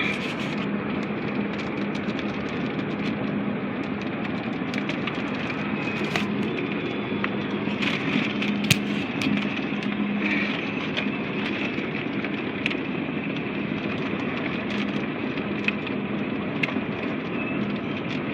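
Steady road and engine drone of a car driving, heard from inside the cabin, with a low steady hum and a few scattered light ticks.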